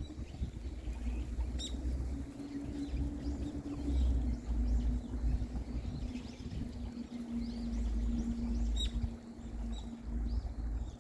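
Small birds chirping faintly in short calls, with two sharp clicks, over a fluctuating low rumble and a steady low hum.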